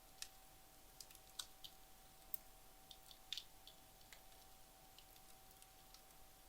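Faint, sparse crackles and ticks from a wood fire burned down to embers, irregular, mostly in the first four seconds. A faint steady hum runs underneath.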